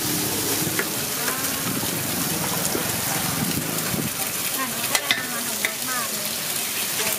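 Eggs, diced tofu, dried shrimp and prawns sizzling in hot oil on a wide flat pan, a steady frying hiss. Two sharp clicks stand out about five seconds in.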